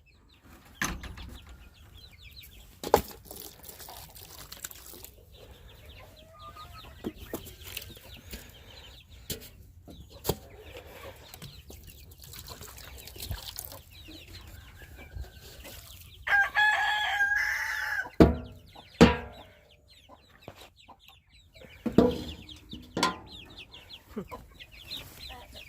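Chickens clucking, with a rooster crowing once about two-thirds of the way through, among scattered short knocks and clicks.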